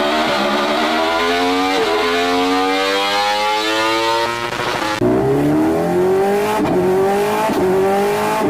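Sport motorcycle's high-revving engine accelerating hard through the gears. The pitch climbs, then drops at each upshift, about once a second in the later part. About five seconds in, the sound switches abruptly to a different recording of a similar run.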